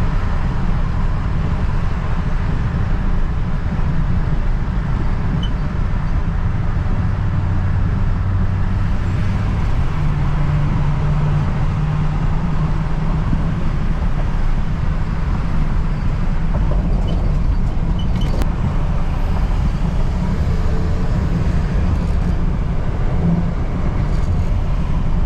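4x4 pickup truck driving at highway speed, its engine and tyre noise heard from inside the cab as a steady low drone.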